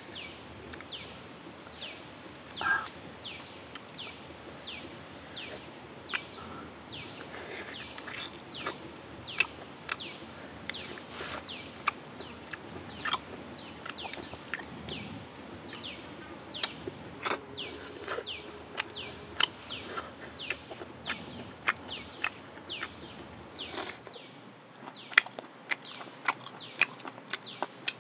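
Bird chirping: a long run of short, falling chirps, about two to three a second, with scattered sharp clicks.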